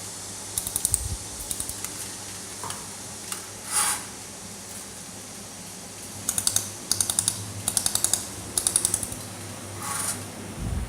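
Laser welding machine firing short bursts of rapid clicking pulses, several bursts in a row, over a steady low machine hum.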